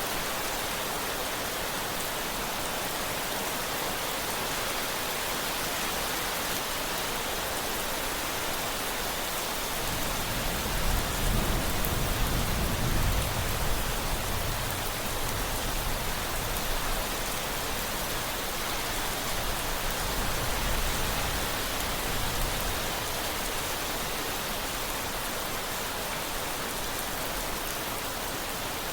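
Steady rain falling, with a long, low roll of thunder that swells about a third of the way in, peaks twice and fades away about two-thirds of the way through.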